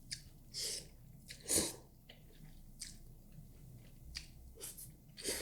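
Close-miked eating sounds: a person chewing food, with soft wet clicks and two louder breathy bursts about half a second and a second and a half in.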